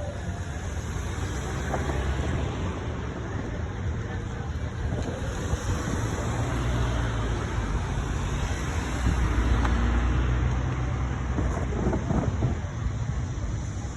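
Train rolling past: a steady low rumble with a haze of wheel and rail noise, swelling a little about ten seconds in.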